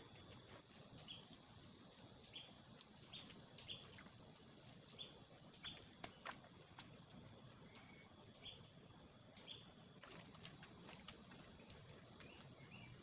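Faint forest ambience: short bird chirps, a dozen or so scattered irregularly, over a steady high insect drone.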